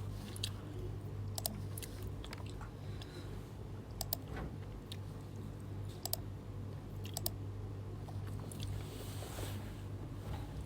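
Scattered light clicks and small handling noises, some in quick pairs, over a steady low hum.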